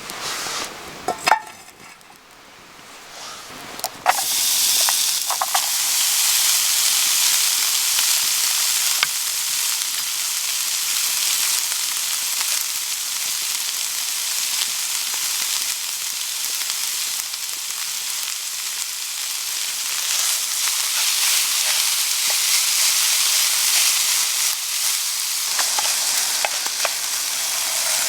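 Food frying in a hot pan: a few light clicks and knocks, then about four seconds in the food goes in and a loud, steady sizzle starts and keeps going.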